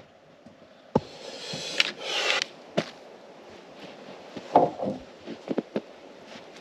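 Someone moving about and handling things: a sharp knock about a second in, a swishing rustle just after, then a few scattered clicks and thumps.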